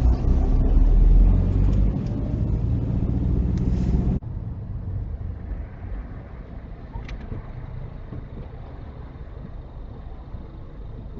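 Car engine and road noise heard inside the cabin through a dash cam microphone. About four seconds in, a loud engine hum with steady low tones cuts off abruptly to a quieter, even low rumble.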